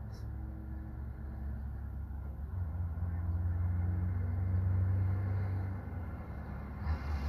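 Motor vehicle engine running with a low, steady rumble that swells for a few seconds in the middle and eases off near the end.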